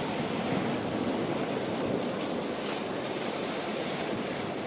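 Steady wash of sea waves on a rocky shore.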